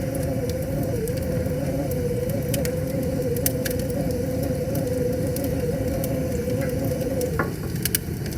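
Wood fire crackling with scattered sharp pops, two of them close together near the end, over a steady rushing of river water. A steady, slightly wavering low tone runs beneath.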